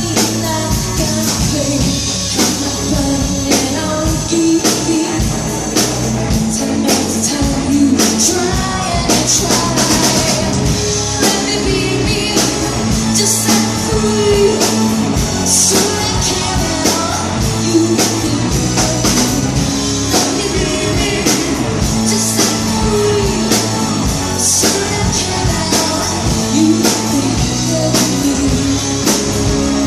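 Live band playing a rock song, with drum kit, guitar and bass and a sung lead voice over a steady beat.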